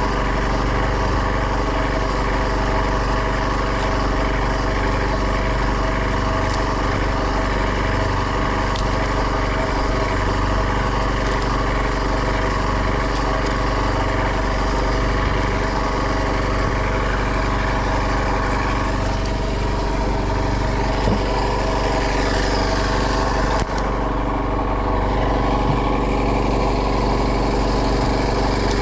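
Fishing boat's engine running steadily at a constant speed, with a brief dip in loudness about three-quarters of the way through.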